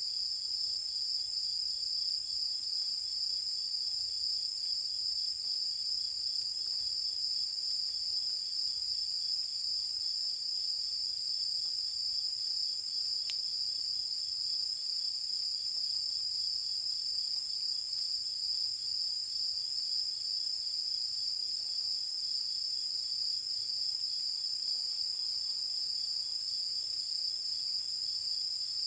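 Night chorus of singing insects: a steady, high-pitched ringing trill from several insects at once, with a fainter pulsing chirp beneath it.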